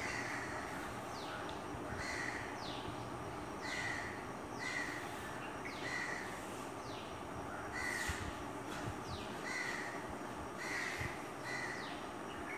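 A bird calling over and over, roughly once a second: each call is a quick falling chirp ending in a short lower note.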